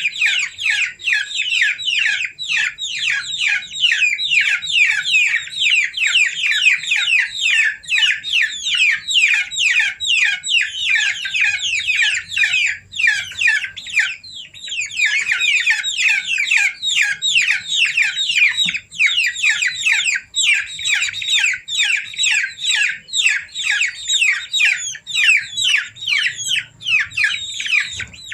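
A crowd of baby chicks peeping continuously: a dense stream of rapid, high, downward-sliding cheeps, with a brief pause about halfway through.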